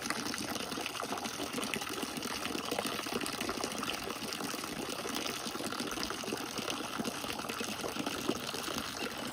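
Steady running, splashing water.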